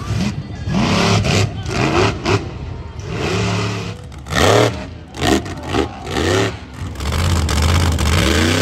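Monster truck engine revving hard in a run of short, rising blips, then held at high revs for about two seconds near the end.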